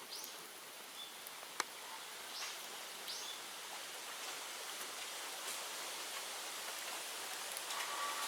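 Bonfire of cut bamboo burning with a steady hiss, a sharp crackle about a second and a half in and a few fainter snaps. A few short high chirps sound over it in the first half.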